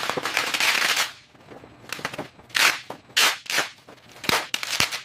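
A series of hissing, crackling bursts of noise: a long one for about the first second, then several shorter ones about half a second to a second apart.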